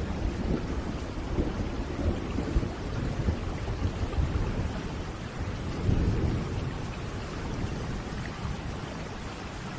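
Steady heavy rain with rolling thunder, the low rumble swelling about six seconds in.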